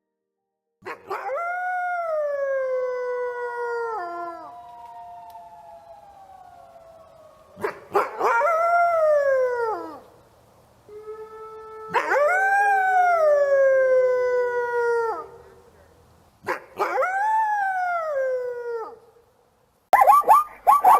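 Canines howling: a series of long howls, each rising sharply and then sliding down in pitch, with two voices overlapping at times. About a second before the end, a different sound made of rapid pulses starts.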